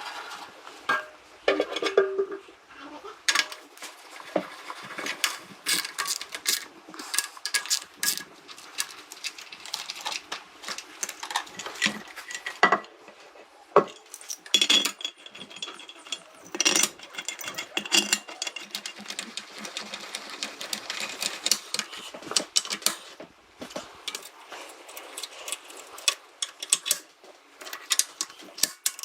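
Irregular clicking and clattering of small hard objects being handled, with some sharper knocks now and then.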